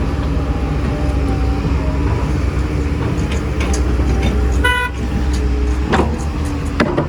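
Heavy diesel earthmoving machinery (excavators and dump trucks) running steadily. A single short horn toot comes about two-thirds through, and two sharp knocks come near the end.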